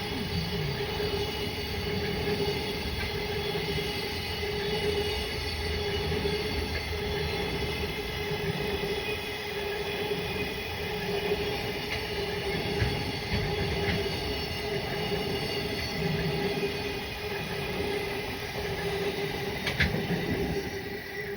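Freight train wagons rolling past on the rails, a steady rumble with a sustained high-pitched ringing squeal from the wheels.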